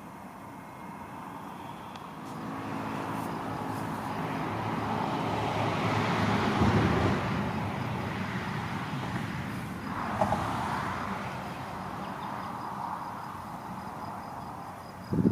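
A vehicle passes by: its engine hum swells to a peak about six to seven seconds in, then fades. There is a brief knock near the end.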